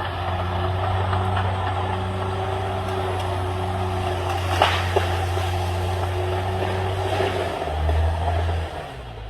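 CAT D6R XL bulldozer's diesel engine running steadily, with a steady whine above it and two sharp knocks about halfway through. Near the end the engine note changes and then drops away.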